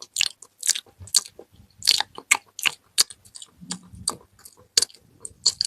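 Close-miked ASMR mouth sounds: quick wet clicks and smacks of tongue and lips in an irregular run, several a second.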